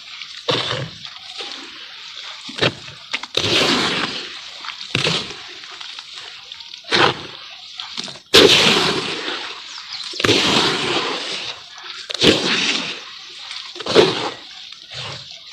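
Charcoal crumbling and breaking apart in water, with irregular splashing and sloshing bursts; the loudest starts suddenly about eight seconds in.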